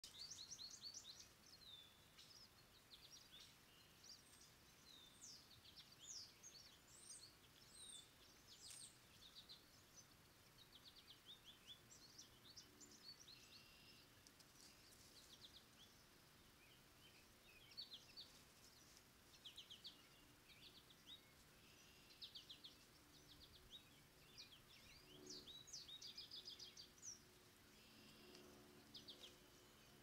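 Faint birdsong from several small birds, a steady run of short chirps and quick sweeping notes.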